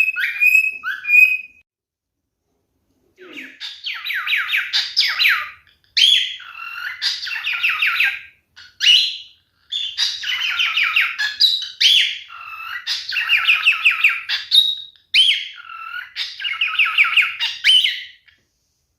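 Pied cockatiel singing: a few short whistled notes, a pause of about two seconds, then long phrases of rapid, chattering warble broken by sharp rising whistles, stopping shortly before the end.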